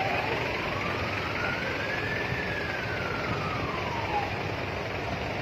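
An emergency vehicle's siren wailing: one slow rise in pitch over about two seconds and a slow fall, over steady background noise.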